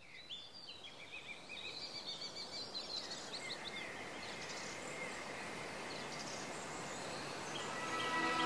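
Outdoor ambience of birds chirping in quick repeated calls over a steady background hiss, with the chirping thinning out after a few seconds. Music with sustained tones and light plucked notes fades in near the end.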